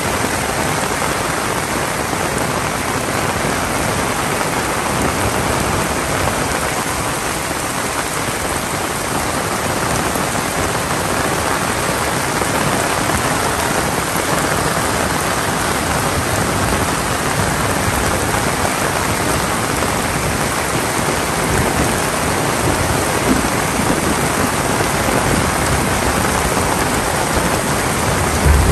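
Heavy rain pouring steadily onto the ground and surfaces, an even dense hiss that grows slightly louder in the last few seconds.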